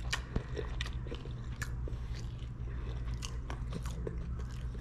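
A person biting and chewing a cracker topped with smoked herring: irregular crisp crunches, over a steady low hum.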